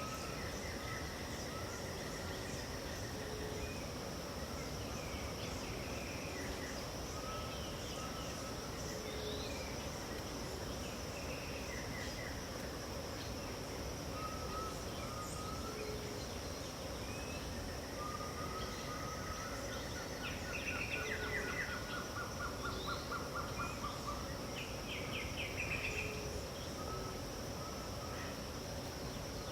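Dawn chorus of several wild birds singing short whistled phrases and trills over a steady high insect drone, with a faint low rumble underneath. A louder rapid trill comes about two-thirds of the way through and another burst near the end.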